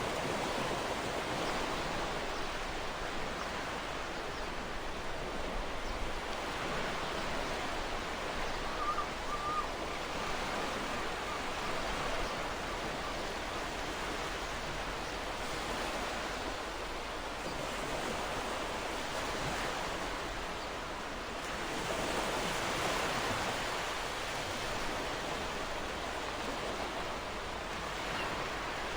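Ocean surf: waves washing continuously onto a shore, a steady hiss of water that slowly swells and eases, with a fuller surge a little past the middle.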